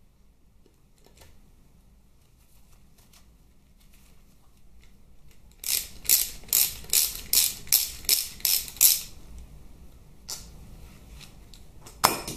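Hand socket ratchet clicking in a run of about ten quick strokes, about three a second, as the Allen head screws of a Harley gearbox oil pan are undone, then one sharp click near the end.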